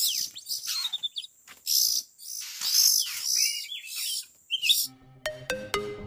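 Oriental magpie-robin calling: harsh rasping screeches mixed with short gliding whistled notes. About five seconds in, electronic music with repeated plucked notes takes over.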